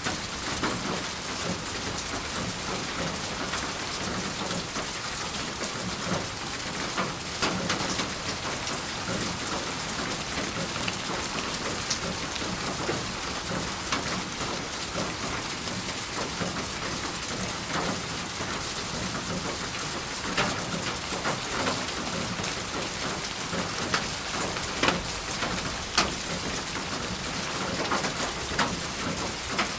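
Steady rain falling on a surface, an even hiss with scattered louder drop hits.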